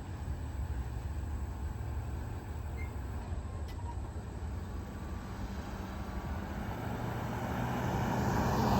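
Low, steady rumble of a Norfolk Southern manifest freight train's cars rolling on the rails, with a faint hum, growing somewhat louder near the end.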